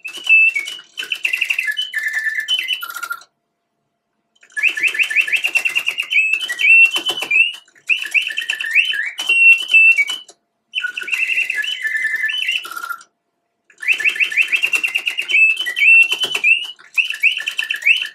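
Bontems double singing-bird cage automaton singing: its clockwork-driven bellows and piston whistle give fast trilled, warbling bird-song phrases of a few seconds each, broken by short pauses, with faint mechanical clicking under the song.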